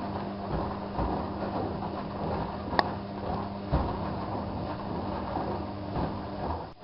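Bauknecht WAK7751 front-loading washing machine running its wash cycle: a steady motor hum with the drum turning and swishing the laundry, and two short sharp clicks in the middle. Its drum bearing is slowly failing, according to the owner.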